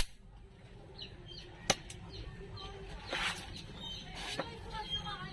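Small birds chirping repeatedly in the background, broken by two sharp loud clicks, one at the start and one just under two seconds in, and a short hissing burst about three seconds in.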